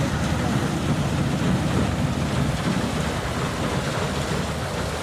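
Combine harvester running steadily in a paddy field, a continuous low rumble.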